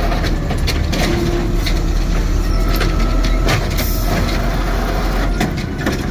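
Automated side-loader garbage truck running, with repeated knocks and clatter of its lifting arm and cans and a steady whine for about a second and a half in the middle.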